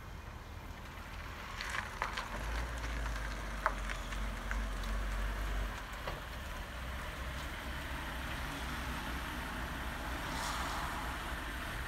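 1981 Mercedes 380SL's V8 running as the car rolls slowly in, a low rumble strongest for a few seconds about two and a half seconds in, over a steady hiss. A few light clicks sound in the first six seconds.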